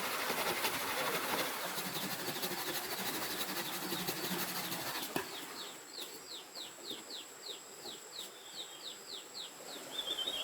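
Rainforest ambience: a dense hissing, crackling haze for the first half, then a bird calling a quick run of short, high, descending notes, about three or four a second, over a faint steady high insect-like tone.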